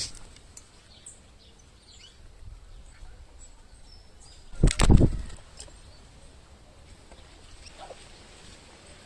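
Small birds at a feeder giving scattered short high chirps. About halfway through comes one brief, loud flutter of wings close by.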